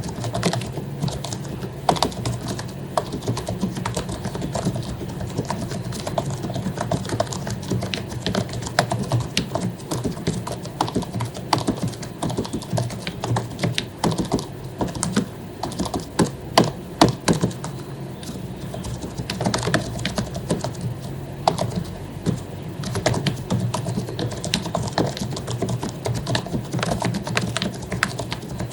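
Continuous typing on an HP zpr110U1 membrane keyboard with lubed keycaps: a rapid, irregular stream of soft key presses, with a few louder strikes around the middle.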